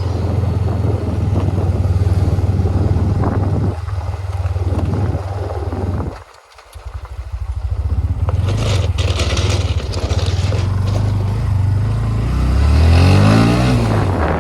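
Motorcycle engine running while riding, with a steady low note. It drops away briefly about six seconds in, then picks up again. Near the end the engine's pitch rises and falls as it revs.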